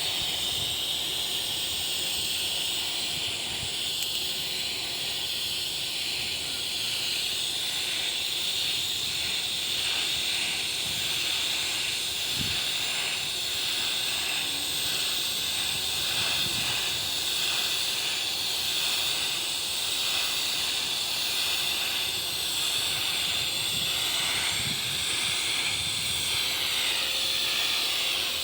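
TIG welding arc on stainless steel pipe: a steady, even hiss that runs without a break.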